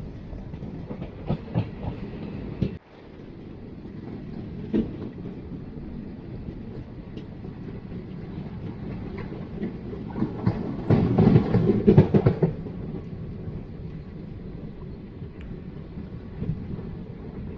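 Jan Shatabdi Express passenger train running on the track: a steady rumble with wheels clicking over rail joints now and then. A louder burst of rapid clattering, about two seconds long, comes just past the middle.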